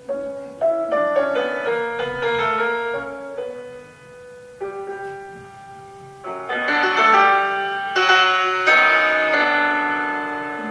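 Solo piano playing a slow, romantic classical piece: chords and melodic runs, each note struck and then fading, swelling louder about two-thirds of the way through.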